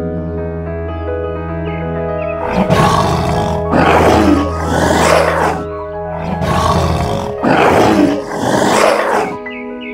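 Tiger roaring in two runs of about three roars each, starting about two and a half seconds in, over background music.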